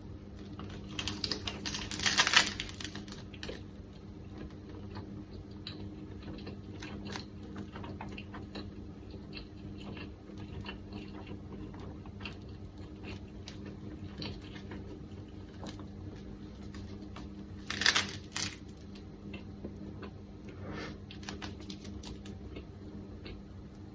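Close-miked eating of an onigiri rice ball with umeboshi and tororo kombu: a big crunchy bite about two seconds in, then steady chewing with many small crunches and mouth clicks, and a second bite near the eighteen-second mark.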